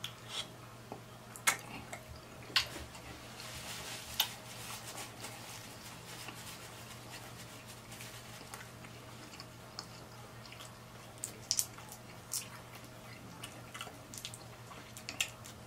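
Close-miked eating of boiled shrimp: wet chewing and lip smacks, with sharp clicks scattered throughout, over a faint steady hum.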